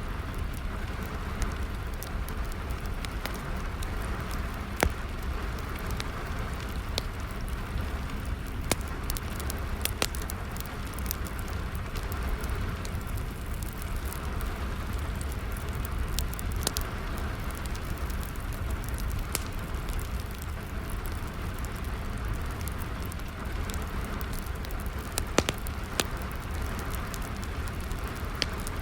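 Wood fire crackling, with sharp irregular pops, a few louder than the rest, over a steady hiss of falling rain and a low rumble.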